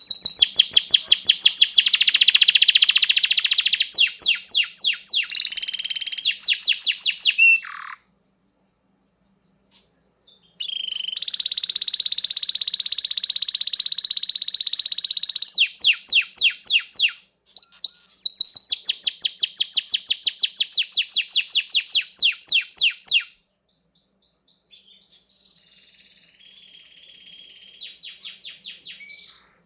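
Canary singing long phrases of rapid trills and rolls, with a pause of a couple of seconds about a third of the way in. The song turns softer and quieter for the last several seconds.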